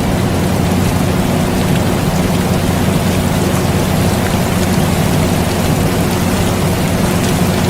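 Steady rain mixed with an air conditioner's continuous low hum and whoosh, with faint scattered drop ticks and no change throughout.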